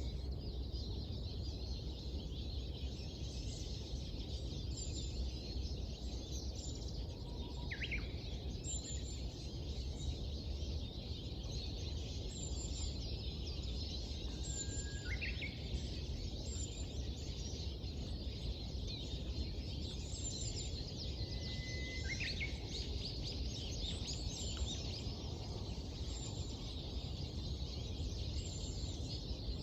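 Birdsong over a steady low background rumble: many small birds chirp and twitter without a break. One bird repeats a song about every seven seconds, a held whistle ending in a quick, sharp flourish.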